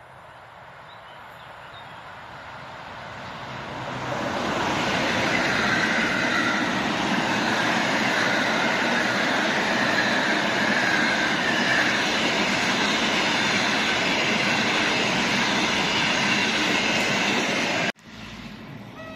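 Passenger express hauled by an EP07 electric locomotive passing: a rising rumble as it approaches, then a steady, loud rolling noise of the coaches' wheels on the rails, which cuts off suddenly near the end.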